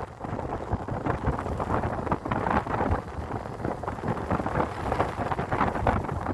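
Wind buffeting the microphone of a moving motorcycle: an uneven, gusting rush of noise, with the ride's vehicle noise mixed in underneath.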